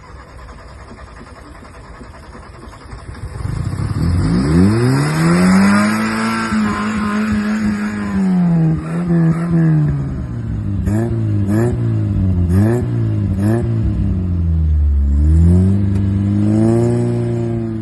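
Car engine being revved while stationary: a long rev climbs about four seconds in, holds and falls back, then three or four quick blips of the throttle, and another rev near the end.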